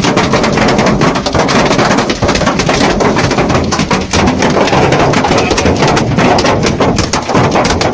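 Heavy hail pelting down in a storm: a loud, dense, continuous clatter of many rapid impacts over the rush of rain.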